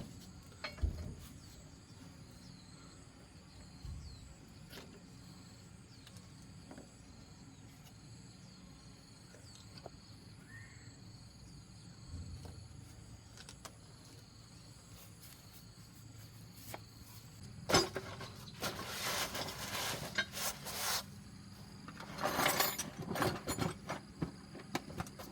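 Light scattered clicks over a quiet background, then two stretches of scraping or rubbing, one a little over halfway through and another near the end.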